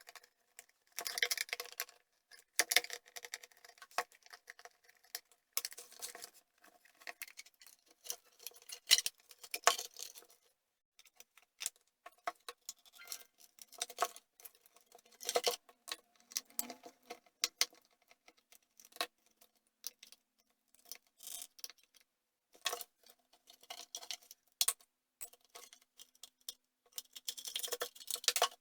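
Irregular clicks, taps and rattles of hard parts being handled, in clusters with short pauses, with a light ringing under many of the knocks.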